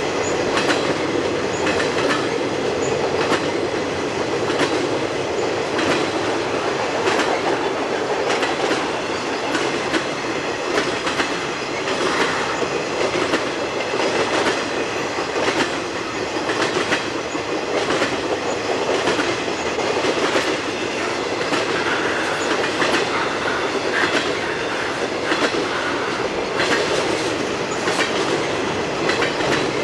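Freight cars of a piggyback intermodal train rolling past: a steady rushing of wheels on rail, with repeated clicks as the wheels cross rail joints.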